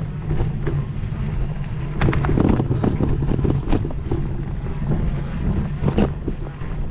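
Wind buffeting the microphone over a steady low rumble of a mountain bike rolling over rough dirt trail, with irregular clatters and knocks from the bike over bumps, busiest about two seconds in and again near the end.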